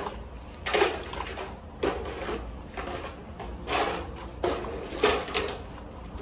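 A series of sharp knocks with metallic clatter, spaced roughly a second apart.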